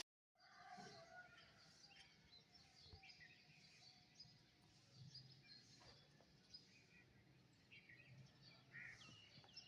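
Birds chirping and calling: many short, scattered chirps and call notes, faint. The audio cuts out completely for a moment at the start.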